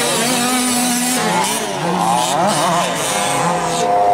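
Several 1/5-scale RC off-road trucks' small two-stroke gas engines racing, their pitch rising and falling as they rev up and back off, with more than one engine heard at once.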